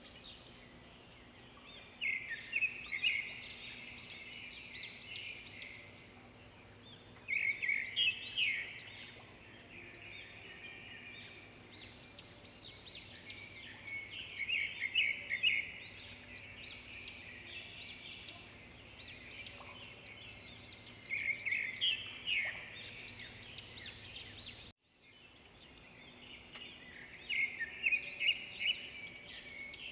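Birds chirping and singing in bursts of rapid, high chirps every few seconds over a faint steady background. About 25 seconds in, the sound cuts out briefly and fades back in.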